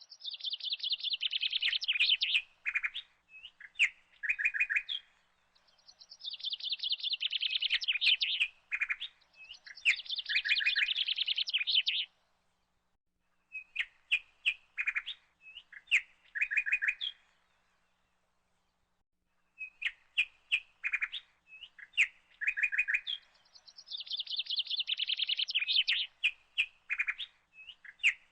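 A songbird singing, repeating the same short phrase again and again: a fast high trill followed by a few clipped notes, with gaps of a second or two between bouts.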